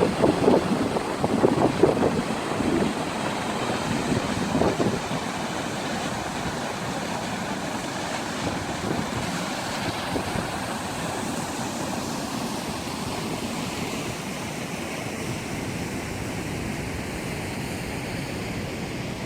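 Wind buffeting the microphone in gusts for the first few seconds, over a steady rushing of falling water from Kirkjufellsfoss waterfall.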